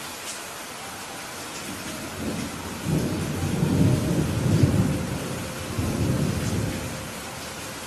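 Steady rain with a roll of thunder that builds about two seconds in, rumbles for about four seconds, and fades near the end.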